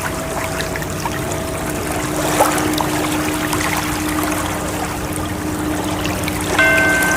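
Steady rush and trickle of ocean-wave water sounds, with soft sustained tones underneath; a higher chord of tones comes in suddenly near the end.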